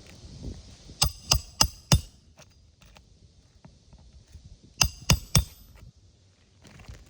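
Hammer blows on a roofing snake tool, metal on metal with a ringing clink, driving the final nail under a shingle. Four quick strikes about a second in, then three more a few seconds later.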